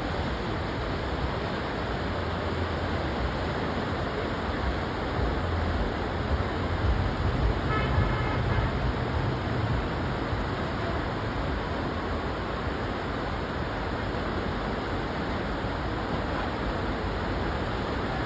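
Steady rushing of river water, with a deeper rumble swelling for a few seconds in the middle and a brief faint horn-like tone about eight seconds in.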